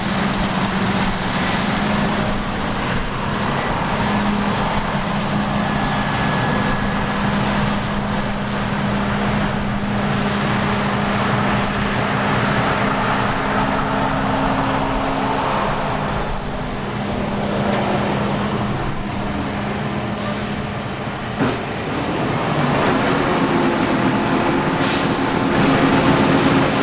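Heavy diesel harvest machinery running steadily under load, a constant engine hum over the rush of working machinery, with a short knock about three quarters of the way in.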